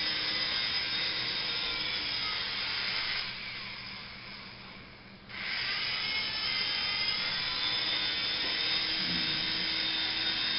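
Toy remote-control helicopter's small electric motor and rotors running with a high-pitched whine. It eases off about three seconds in, then spins back up sharply about two seconds later.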